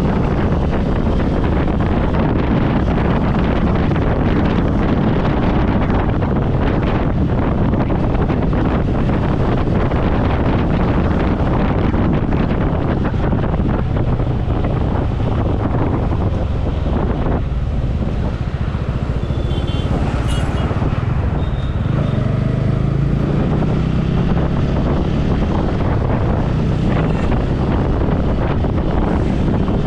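Wind buffeting a helmet-mounted microphone on a moving motorcycle, with engine and road noise underneath. About seventeen seconds in, the wind eases for a few seconds and a steady low engine hum comes through more plainly.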